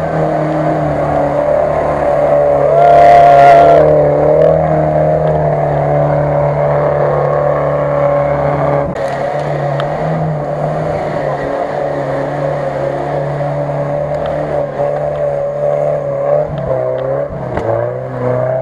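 Off-road UAZ 4x4's engine running under heavy load as it is driven through deep mud, its pitch rising and falling with the throttle. The loudest surge comes about three seconds in, and the engine note wavers again near the end.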